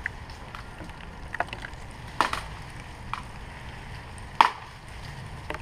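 A few sharp knocks or clicks, two louder ones about two seconds apart, over a steady low wind rumble.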